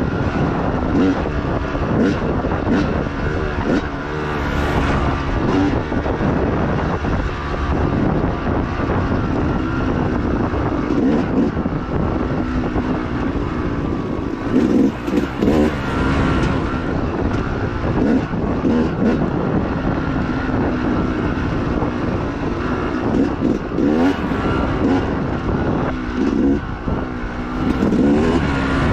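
Dirt bike engine revving up and down continuously under hard riding, its pitch rising and falling with the throttle, mixed with frequent short knocks and clatter from the bike over rough ground.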